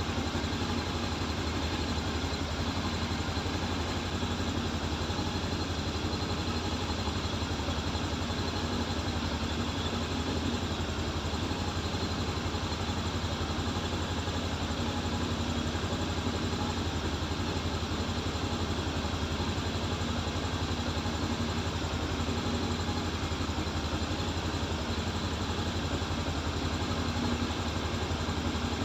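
Voge 525 DSX's parallel-twin engine idling steadily, with no revving.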